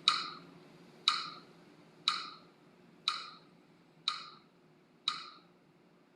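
A sharp tick with a short ring, repeating evenly once a second. The ticks grow softer one by one and stop after the sixth, about five seconds in.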